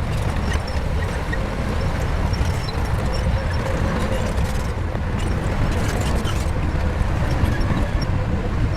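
Shantui crawler bulldozer's diesel engine running steadily at work.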